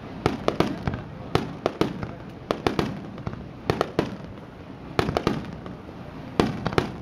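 Aerial fireworks shells bursting in a rapid volley: sharp bangs coming in quick clusters, often several a second, through the whole stretch.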